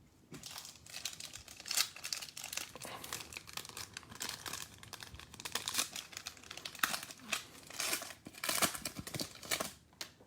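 Plastic foil trading card pack wrapper crinkling and tearing as the pack is opened, in irregular rustling bursts with a few sharper rips.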